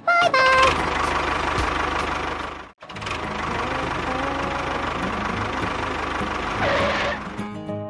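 A small motor running steadily, with a short pitched sound right at the start and a brief sudden break about three seconds in.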